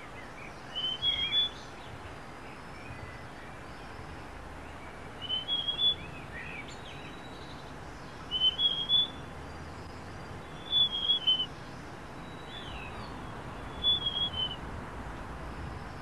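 Niltava singing: five short, high whistled phrases of three or four quick notes each, about every three seconds, over a steady background hiss.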